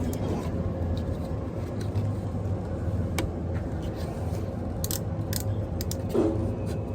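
Diesel engine of a 2022 Peterbilt 389 heard from inside the cab, a steady low drone, with scattered sharp clicks and ticks over it.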